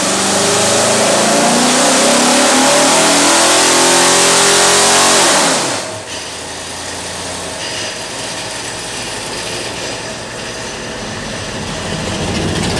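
Cobra's V8 at full throttle on a chassis dyno, its note climbing steadily for about five seconds. The throttle then closes sharply, the revs fall away, and the engine runs on at a lower, quieter level as the car coasts down on the rollers.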